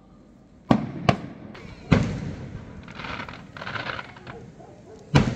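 Aerial fireworks shells bursting: two sharp bangs under a second apart, a louder bang about a second later, then a spell of crackling, and another bang near the end.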